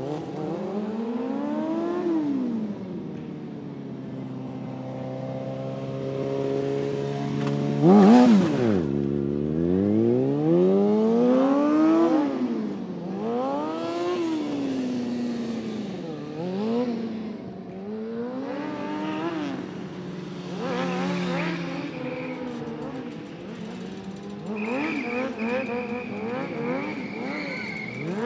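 Vehicle engines revving again and again, the pitch climbing and falling. About eight seconds in there is one very loud, close pass with a quick drop in pitch. Near the end a steady high-pitched whine sounds for a few seconds.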